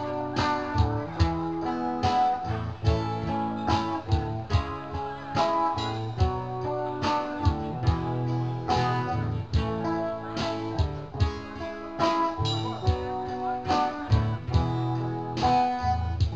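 Live acoustic guitar music, strummed in a steady rhythm with low bass notes underneath, an instrumental passage with no singing.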